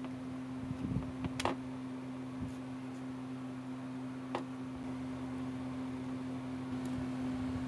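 A steady low machine hum with a few sharp clicks, one about a second and a half in and another a little past four seconds.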